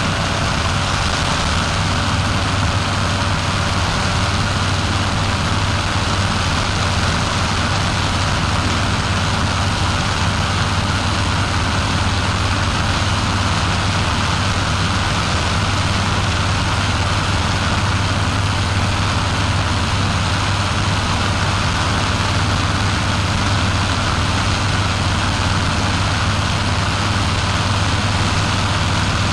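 Powered paraglider's paramotor engine and propeller running at a steady, unchanging drone in flight, over a constant rushing noise.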